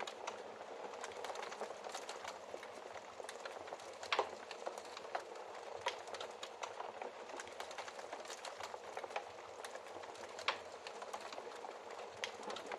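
Wood fire in a fireplace burning with a steady soft hiss and frequent small crackles and pops, a couple of sharper pops standing out, one about four seconds in and one near ten seconds.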